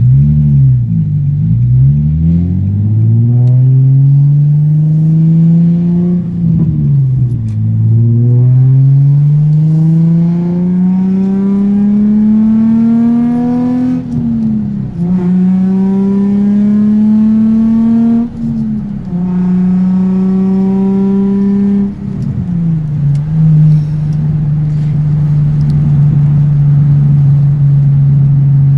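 Nissan 350Z's V6 engine accelerating through the gears of its manual gearbox: the pitch rises in each gear and drops sharply at each shift, about five times, then holds steady near the end.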